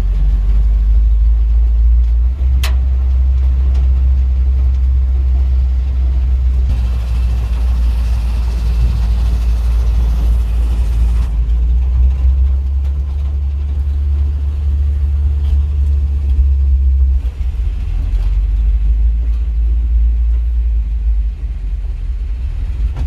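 Chevrolet dump truck under way, heard from inside the cab: a steady low engine and road rumble, with a single sharp click about two and a half seconds in and a stretch of added hiss a little later.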